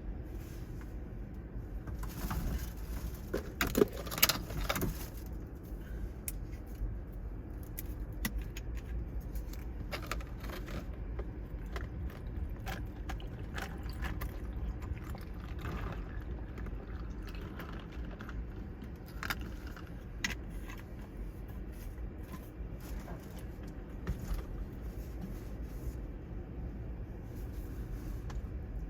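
Steady low rumble of typhoon surf and wind at the beach, with scattered sharp clicks and rattles, a cluster of them loudest about four seconds in.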